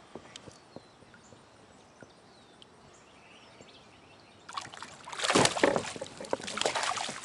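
Water splashing and sloshing beside a kayak, starting suddenly about four and a half seconds in and lasting a couple of seconds, after a quiet stretch with faint bird chirps.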